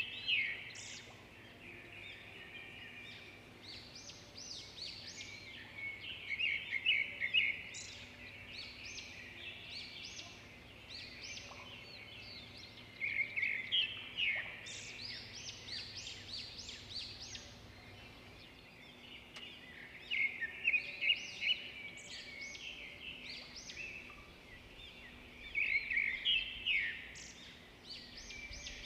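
Small birds chirping in quick bursts of short, high notes every few seconds, over a faint steady hum.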